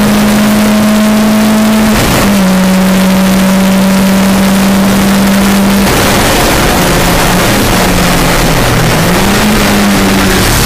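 VW Golf Mk2's engine on individual throttle bodies under full throttle inside the cabin, holding a steady high note with a quick upshift about two seconds in. About six seconds in it comes off the throttle, and the note drops and wavers as the car brakes and changes down for a corner, over constant wind and road noise.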